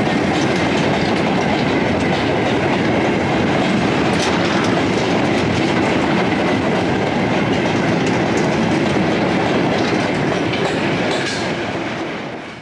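Train of steel open wagons rolling past at close range: a steady rumble and clatter of wheels on the rails, fading away just before the end.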